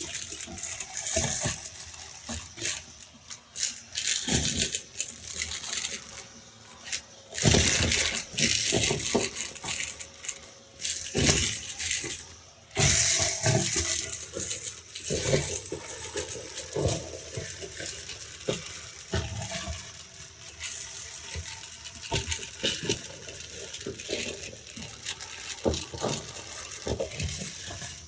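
Beads being sucked up by a vacuum cleaner: a dense, irregular clatter of small hard pieces rattling through the nozzle and hose over the steady rush of air, with louder surges now and then.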